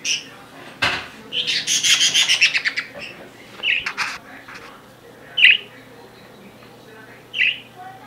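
Caged pet bird calling: a knock about a second in, then a fast chattering run of notes lasting over a second, followed by short single calls a second or two apart, the loudest about halfway through.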